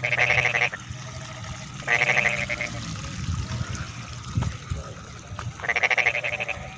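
Frogs calling in a flooded rice field: three calls in a row, each a fast rattling train of pulses lasting under a second.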